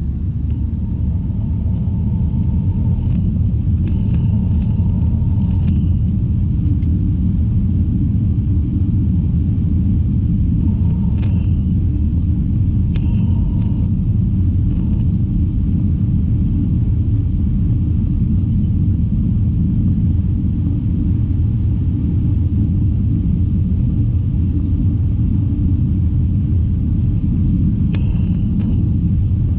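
Steady low rumble of airliner cabin noise inside an Airbus A321, the engines and airflow, with a few faint short higher sounds over it.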